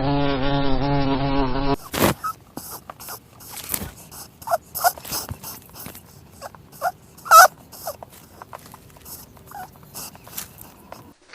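A steady, wavering buzzing drone that cuts off suddenly about two seconds in, followed by scattered short, high animal calls with clicks and rustles.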